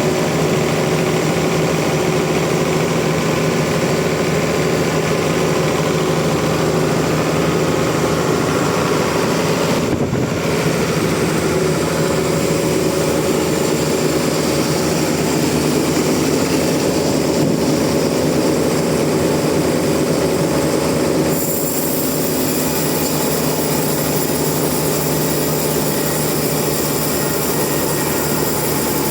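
Sawmill machinery running steadily, with an engine drone that holds one pitch throughout. About two-thirds of the way through, a brighter hiss joins in and the overall level dips slightly.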